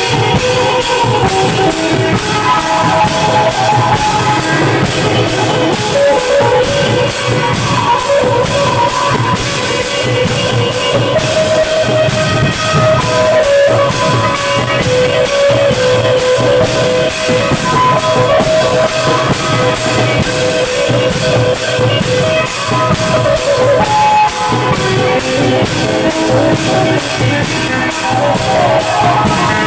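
Thai klong yao long-drum band playing live: a steady, driving drum and cymbal beat under a repeating melody line.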